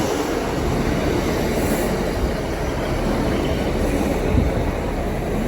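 Northern diesel multiple unit, a Class 150 Sprinter coupled to a Class 156, moving along the platform with a steady rumble of engines and wheels on the rails.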